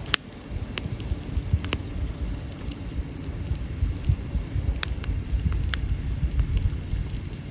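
Wood campfire crackling, with a handful of sharp pops spread through, over a steady low rumble.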